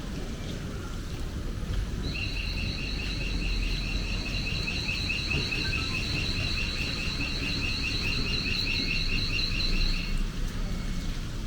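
An electronic alarm starts about two seconds in: two high tones sounding together with a fast flutter, held steady for about eight seconds before cutting off.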